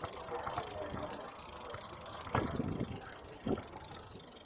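Bicycle rolling over cobblestones with a steady rattling rumble, with a couple of louder knocks. Faint voices of people in the street are also heard.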